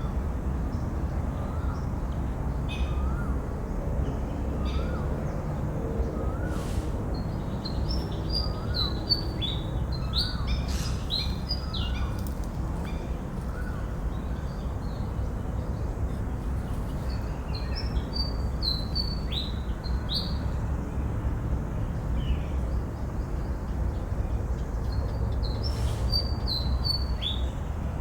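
Birds chirping in short runs of quick high notes, over a steady low rumble. In the first several seconds a lower call repeats about once a second.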